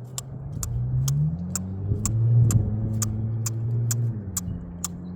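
A vehicle engine rises in pitch and grows louder, runs steadily for a couple of seconds, then eases off near the end. Over it, sharp high clicks repeat about twice a second.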